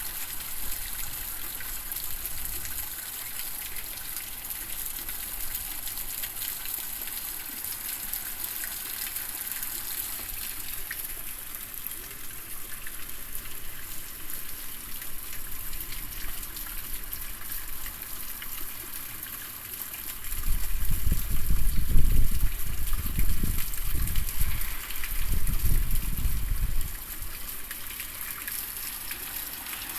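Heavy typhoon rain pouring steadily with a hiss. About two-thirds of the way through, a strong gust of wind buffets the microphone with a loud rumble for roughly six seconds.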